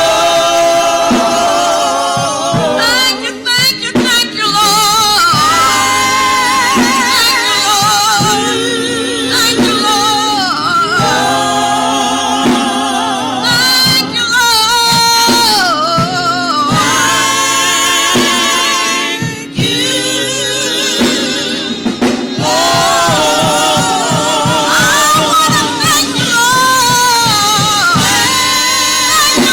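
Gospel singing with vibrato, with instrumental accompaniment.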